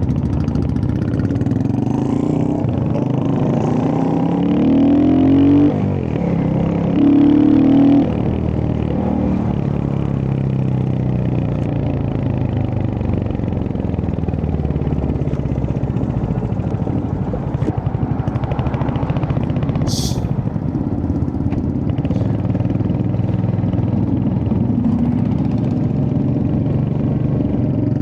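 Royal Enfield Hunter 350's single-cylinder engine accelerating away, rising in pitch twice in the first eight seconds with a gear change between, then running steadily at cruising speed. A brief sharp click about two-thirds of the way through.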